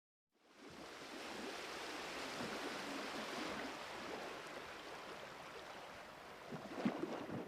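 Steady rushing noise that starts about half a second in after a moment of silence, with a few soft knocks near the end.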